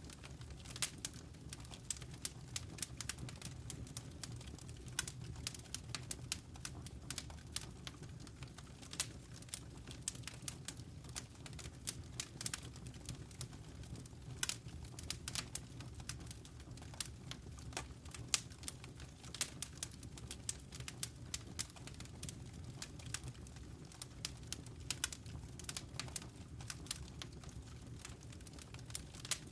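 Wood fire in a fireplace crackling: irregular sharp snaps and pops, several a second, over a steady low rumble of burning.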